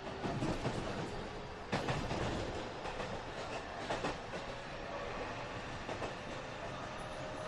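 Interior running sound of a JR West 207 series 1000 subseries electric train car, with the whine of its Toshiba GTO inverter slowly rising in pitch as the train gathers speed. Wheels clack sharply over rail joints a few times.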